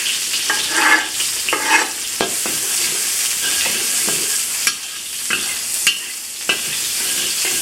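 Chopped garlic and ginger sizzling in hot oil in a pan, being fried to release their aroma, with a utensil scraping and clicking against the pan as they are stirred.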